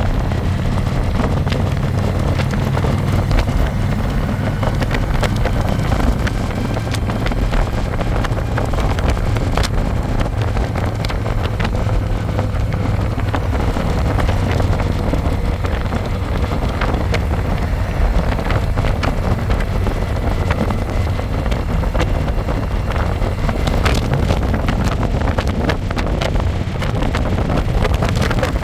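Harley-Davidson Electra Glide's V-twin engine running at a steady cruise, under heavy wind buffeting on the microphone from the open passenger seat.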